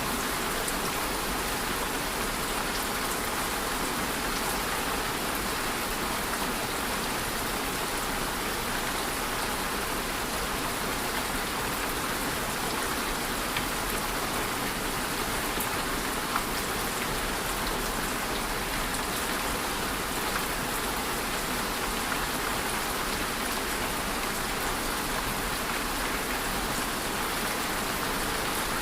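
Steady rain falling and pattering on a surface, an even hiss with occasional individual drop ticks.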